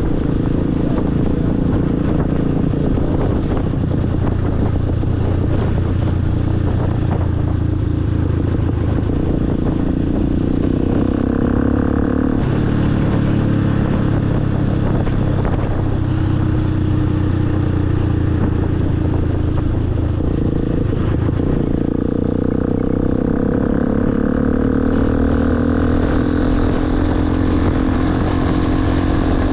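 Motorcycle engine running under way, its pitch rising and falling as the rider works the throttle and gears through the bends.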